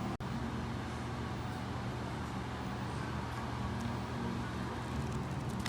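Steady low rumble of background noise, with a sudden brief drop-out just after the start.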